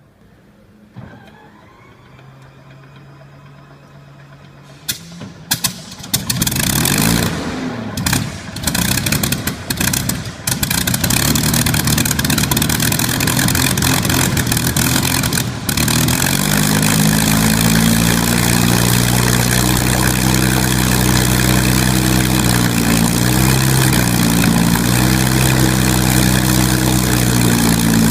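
Supermarine Spitfire's V12 aero engine cold-starting: a starter whine rises for a few seconds, then the engine fires with a string of sharp bangs, catches and runs roughly. About halfway through it settles into a steady idle.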